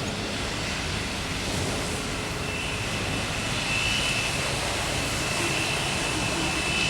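Jet airliner engine noise: a steady rumble and rush, with a thin high whine coming in about two and a half seconds in.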